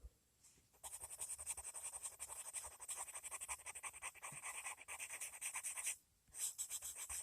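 Colored pencil shading rapidly back and forth on paper, a quick run of scratchy strokes from about a second in, a brief pause near six seconds, then more strokes.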